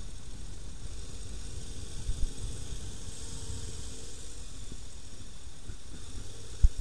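Wind buffeting a camera microphone on a moving motorcycle: a steady rush with low, uneven rumble, broken by a thump about two seconds in and a sharper one near the end.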